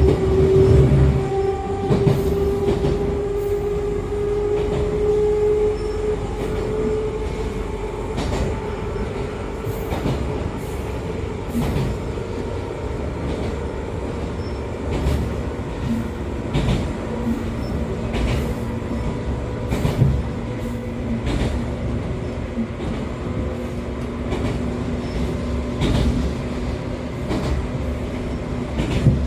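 Interior running sound of an Echizen Railway MC6101 electric railcar with MT54 DC series-wound traction motors. The motor and gear whine rises slowly in pitch for the first several seconds as the train speeds up, then fades as it runs on. Rail-joint clicks sound throughout, and a steady low hum comes in about halfway.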